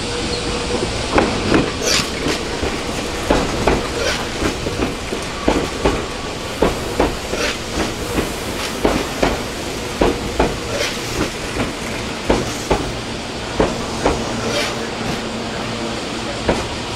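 Electric train running over the track, its wheels clacking over rail joints and points in a string of irregular knocks, about one to two a second, over a steady running noise.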